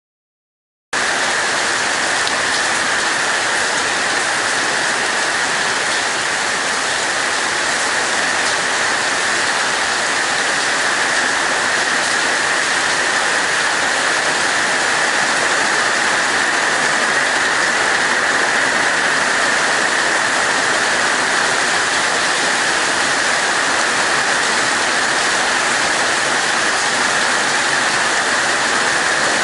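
Heavy tropical-storm rain pouring down in a steady, dense hiss, which starts abruptly about a second in.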